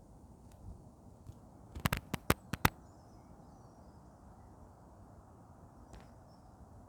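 A quick run of about six sharp clicks about two seconds in, over faint steady outdoor background noise.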